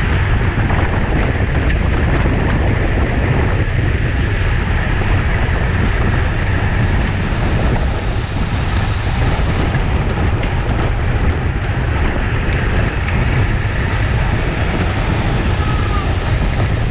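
Wind buffeting the microphone of a camera on a moving road bike: a steady, loud low rumble of wind rush.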